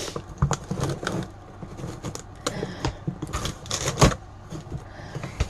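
Rustling and clicking of a cardboard shipping box being handled and opened, in many short scattered bursts, with a sharp knock about four seconds in.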